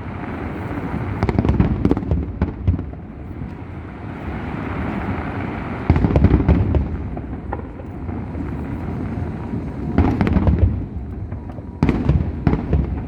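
Fireworks display: aerial shells banging in a continuous barrage with crackling, the heaviest volleys coming about halfway through and twice near the end.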